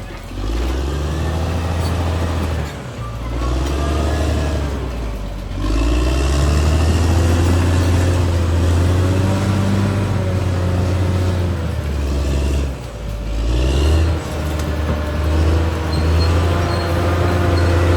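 Caterpillar D6R XL bulldozer's diesel engine working under load, a heavy low drone whose pitch rises and falls as it pushes, dropping away briefly a few times.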